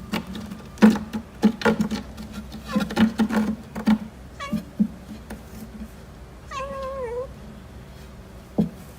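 Domestic cat meowing, with one drawn-out, wavering meow about two-thirds of the way through. Before it come a run of short knocks and thumps.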